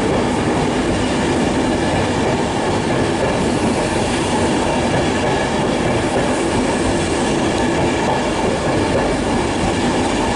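InterCity 225 train pulling out of the station, its Mark 4 coaches rolling past behind the Class 91 electric locomotive with a steady noise of wheels on the rails.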